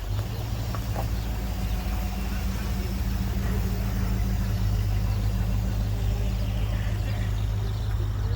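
A car engine running steadily at low speed: an even, low drone that starts abruptly and holds steady.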